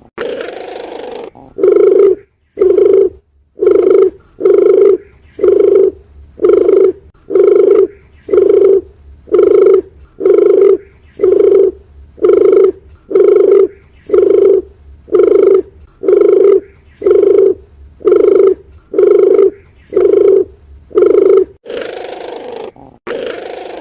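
Dove calling: a steady series of short, low coos, a little more than one a second. A softer hissing rasp comes near the start and again near the end.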